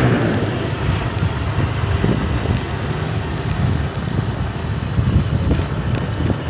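Motorbike on the move in city traffic: engine and road noise under an uneven, gusty low rumble of wind on the microphone.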